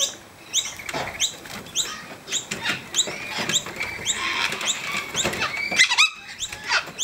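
Birds calling at a feeding spot: a steady run of short, high, rising chirps about twice a second, with harsher squawks mixed in.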